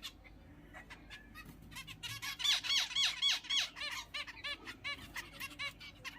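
Zebra finches calling: a run of short, nasal beeping calls repeated several times a second, loudest from about two seconds in and thinning out towards the end.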